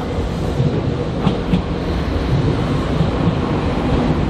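Nankai 9000 series electric commuter train rolling in alongside the platform: a steady rumble of steel wheels on rail, with two sharp clicks from the wheels over the track about a second and a half in.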